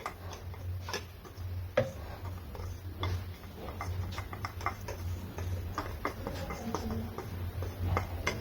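Light kitchen handling noise: scattered small clicks and taps of utensils and containers, with a sharper knock about two seconds in, over a steady low hum.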